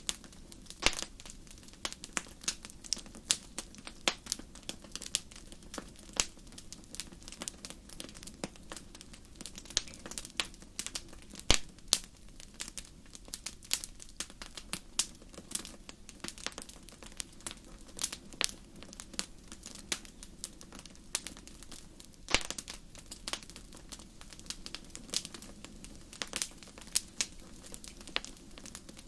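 Fire in a fireplace crackling: many irregular sharp snaps and pops over a low steady rumble of the flames. A few louder pops stand out, one about eleven seconds in and another about twenty-two seconds in.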